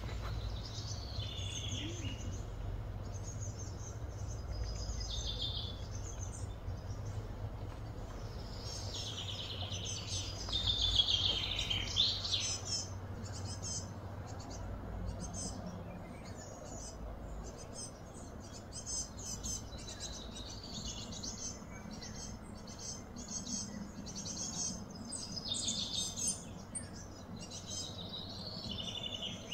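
Outdoor ambience of birds chirping and calling again and again, loudest about ten seconds in, with a rapid ticking chatter through the middle part and a steady low hum underneath.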